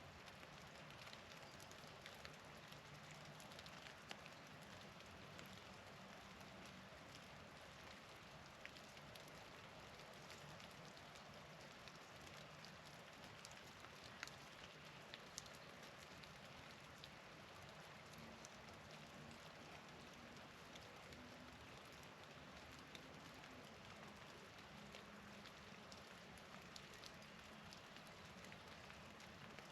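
Faint, steady patter of falling precipitation, with scattered small ticks of drops or pellets landing.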